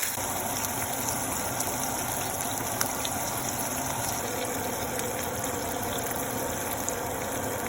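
Tuna, egg and ham omelette mixture frying in hot vegetable oil in a pan, with a steady sizzle.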